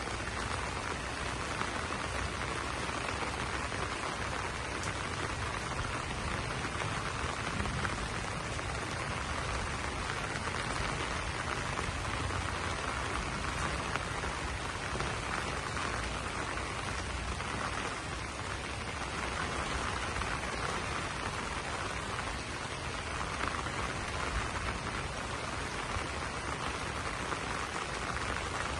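Steady rain falling on banana leaves: an even, unbroken wash of drops.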